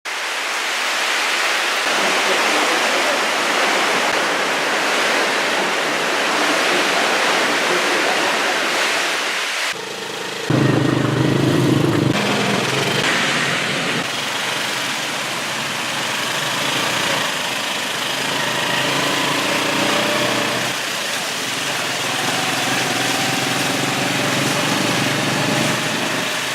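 Heavy rain falling steadily, a dense even hiss. About ten seconds in, a louder low rumble joins it for a couple of seconds.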